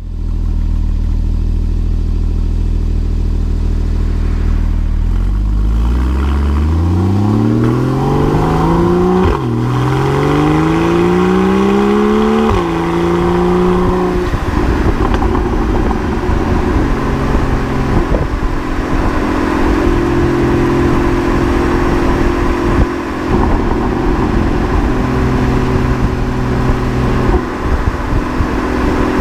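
Porsche 981 Cayman's flat-six engine through a SOUL Performance valved exhaust: steady at low revs, then accelerating with the pitch rising through two quick upshifts, about nine and twelve seconds in, before settling to a steady cruise.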